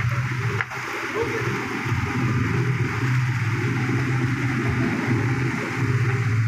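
Steady low engine drone under a constant hiss, running evenly throughout.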